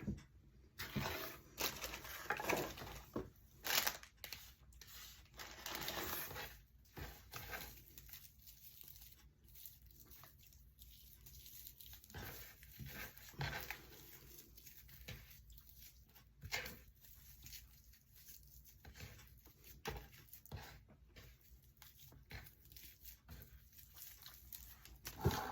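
Raffia rustling and crinkling as it is handled and pressed into place, with scattered light taps and clicks.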